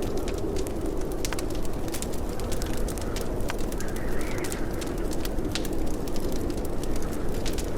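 Wood fire crackling in a fireplace: a steady low rumble of flames with scattered sharp pops and crackles.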